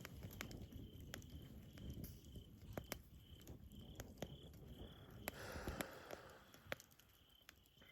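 Campfire crackling softly, with irregular sharp pops and snaps.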